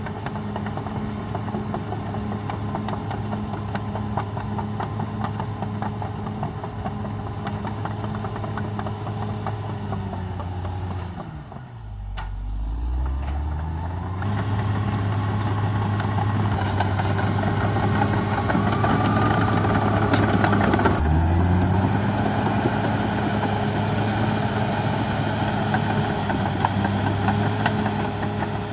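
CAT D6R XL bulldozer's diesel engine running steadily. Its pitch drops sharply and it goes quieter about twelve seconds in, then it picks back up to a louder, higher note. It dips briefly once more about three-quarters of the way through, and a faint squeal comes just before that dip.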